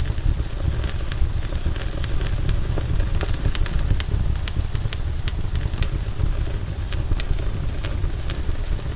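Campfire burning: a steady low rumble of the flames under frequent, irregular sharp crackles and pops from the burning wood.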